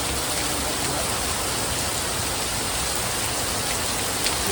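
Steady rain falling: an even hiss with a few individual drops ticking.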